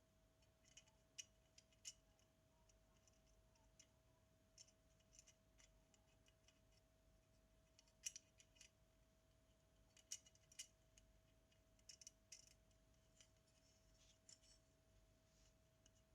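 Near silence, broken by faint, irregular small clicks and ticks of small tools and metal camera parts being handled, a few in quick clusters, over a faint steady hum.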